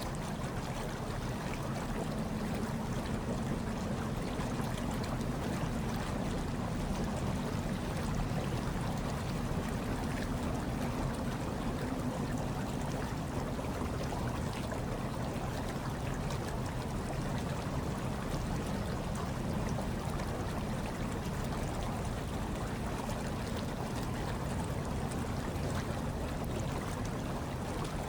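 Hot tub water bubbling and churning steadily with a low, even rumble.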